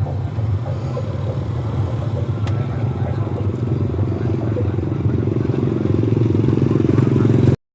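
Loud horeg sound system of Blizzard Audio running a bass-heavy sound check: a steady deep low drone that grows a little louder toward the end and cuts out abruptly at the very end.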